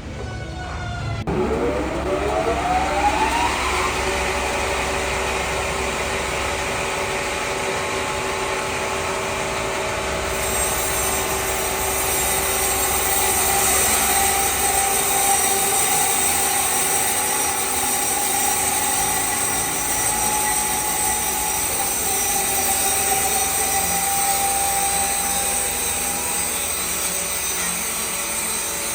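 An electric woodworking machine's motor starts about a second in, its whine rising in pitch over two to three seconds, then runs at a steady pitch. About ten seconds in, a brighter hiss joins it, typical of the machine working the wood.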